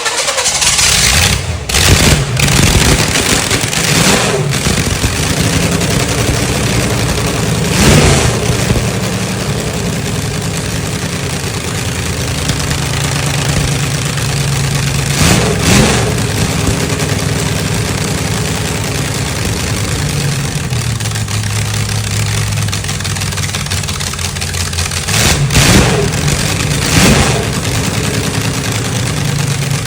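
Car engine idling after its final tune, blipped about six times with short revs that rise and fall back to idle.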